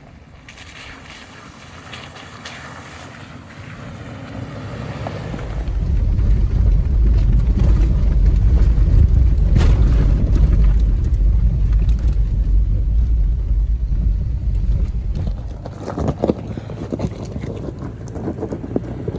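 Off-road vehicle driving on a rough trail, with heavy wind rumble on the microphone; the rumble swells about five seconds in, then falls off near the end.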